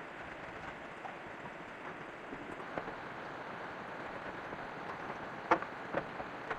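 Steady rain hiss, with a few sharp knocks near the end, the loudest about five and a half seconds in.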